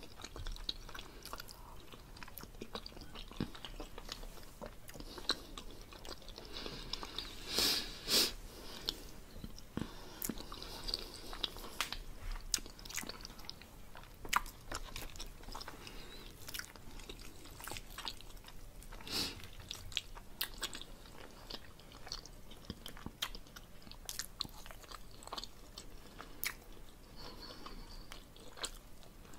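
Close-miked chewing and wet mouth sounds of someone eating tender pork roast, with many short sharp clicks and a few louder smacks.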